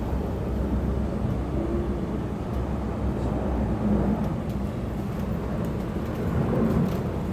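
Steady low rumble of urban traffic noise, with no distinct events.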